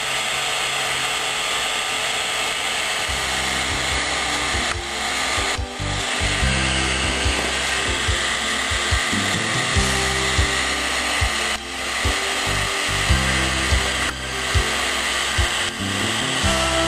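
Heat gun blowing with a steady hiss, softening the adhesive of a decal on a motorcycle gas tank.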